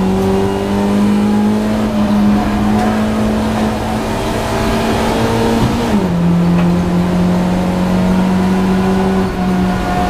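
BMW Compact race car engine under load, heard from inside the stripped cabin. Its note climbs slowly, drops sharply at a gear change about six seconds in, then climbs again.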